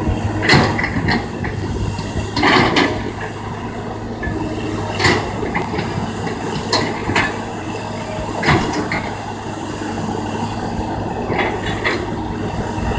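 Kobelco excavator's diesel engine running steadily while it digs, with scattered sharp metallic clanks and scrapes every second or two.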